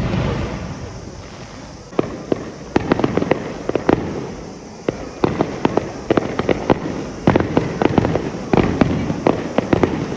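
Fireworks display: a boom fades over the first couple of seconds, then come repeated volleys of sharp crackling pops, clusters of many quick cracks every second or so.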